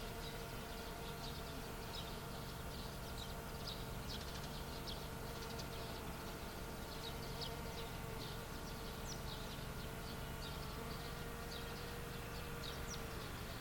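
Countryside field ambience: small birds chirping in many short, quick calls, over a steady hum.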